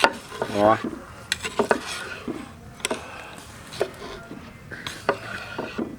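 A knife cutting roasted meat on a wooden board: about six separate sharp knocks and clicks, irregularly spaced.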